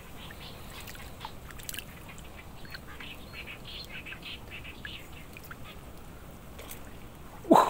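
Many short, scattered bird calls over a low steady outdoor hiss. A brief, loud swooping sound cuts in at the very end.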